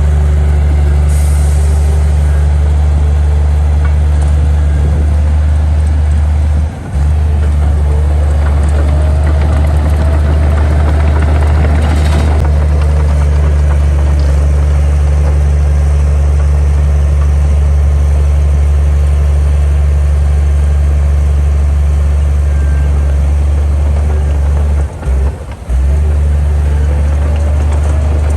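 Heavy diesel construction machinery running steadily: a deep engine drone with a fainter whine that slowly rises and falls in pitch. The sound dips sharply for a moment about seven seconds in and twice near the end.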